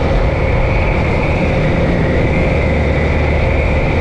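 Yamaha FZ V2 motorcycle's single-cylinder engine running steadily at cruising speed, a constant hum under wind and road noise.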